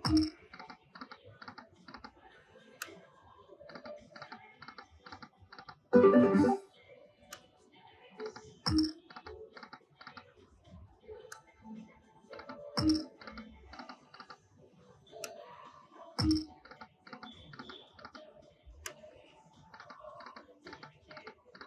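Lightning Link video slot machine spinning again and again: each spin opens with a thump and a short jingle, then the reels stop one after another in a quick run of clicks.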